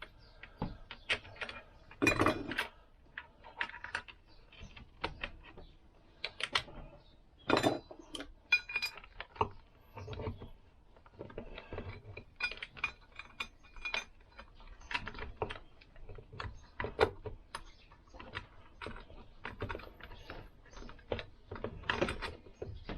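Irregular metallic clinks, rattles and knocks as a Lambretta's drive chain, crown wheel and front sprocket are handled and fitted into the engine casing.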